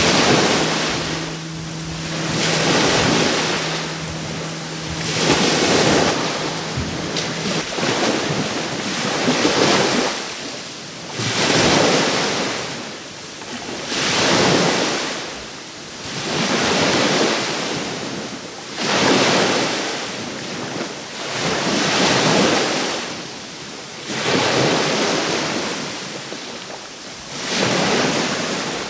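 Caribbean Sea waves washing onto the shore in a steady rhythm, each wave rising and falling away every two to three seconds.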